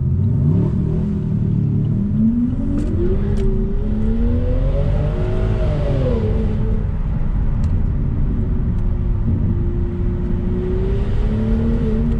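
Straight-piped BMW 7 Series V12 engine under acceleration: its pitch climbs for a few seconds, drops as it shifts up, then holds steady at cruise and starts to climb again near the end.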